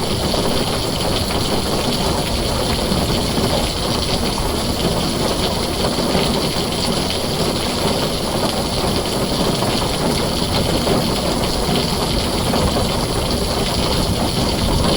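Heavy rain falling steadily on a tin roof, a dense, even hiss and patter with no thunder.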